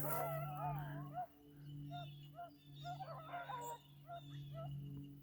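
Several beagles whining and yipping: wavering cries in the first second, then short yelps coming about twice a second, over a steady low hum.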